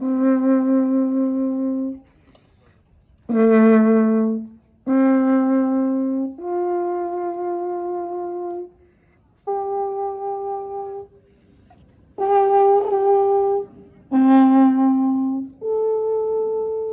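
Alphorn playing a slow melody of long held notes, about eight in all, each lasting one to two seconds, with short pauses between phrases.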